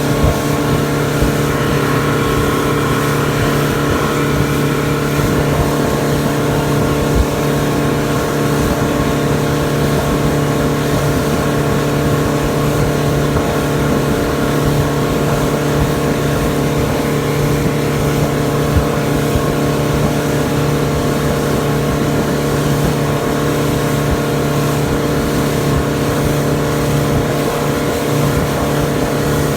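Motorboat engine running under way at a steady speed, an even drone that holds one pitch throughout.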